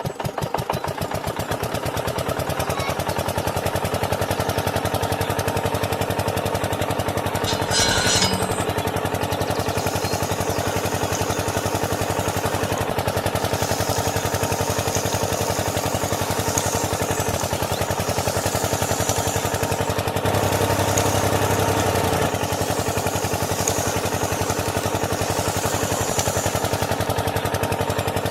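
A small engine on a miniature DIY tractor running steadily with a fast, even beat. There is a brief rattle about eight seconds in.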